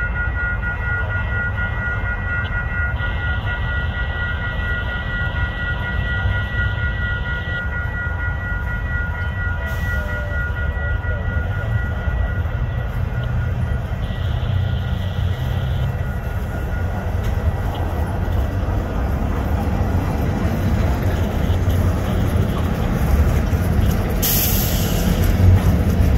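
Freight train rolling slowly past, its tank car and hopper wheels rumbling steadily on the rails. Near the end the Union Pacific diesel locomotives come up and the sound grows louder, with a brief hiss just before the end.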